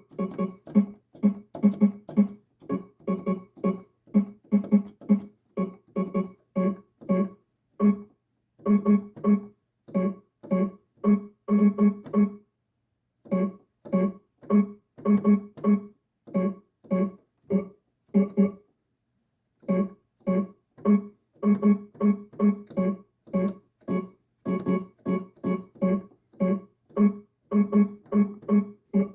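Casio electronic keyboard playing a beat of short, clipped notes, several a second, mostly on the same low pitch, with a few short breaks.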